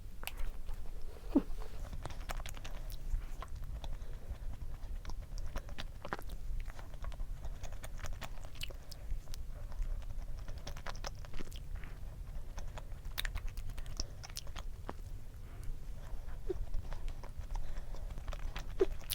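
Close-up eating of an ice cream sandwiched in sponge cake: an irregular run of soft chewing and small mouth clicks.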